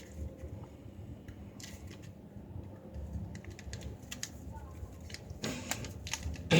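A sheet of paper being handled and creased while folded: light crinkles and taps, with a brief crackle about a second and a half in and a denser run of crackles near the end.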